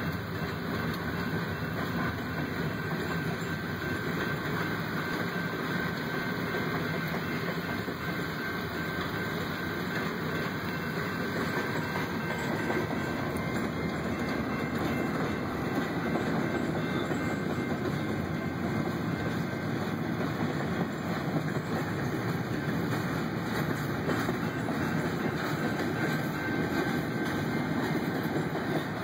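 Freight train of hopper and gondola cars rolling past, steel wheels running on the rails in a steady, unbroken noise.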